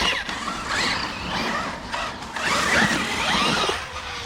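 Brushless electric motors of several RC monster trucks whining as they rev up and fall off, more than one pitch rising and falling at once, over a haze of tyre and terrain noise. The revving swells loudest about two and a half seconds in and fades near the end.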